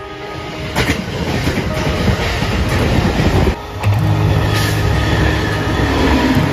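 Express trains passing close by at speed, with a rushing noise and wheels clicking over rail joints. About three and a half seconds in the sound cuts to a second passing train, and a steady low hum runs under its rush.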